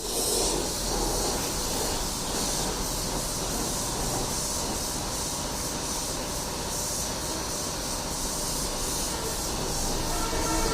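Compressed-air paint spray gun hissing steadily as paint is sprayed.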